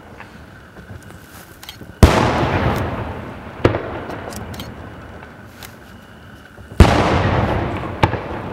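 Aerial firework shells exploding: two loud booms, about two seconds in and again near seven seconds in, each followed by a long fading echo. A sharper single crack comes after each boom, with faint pops in between.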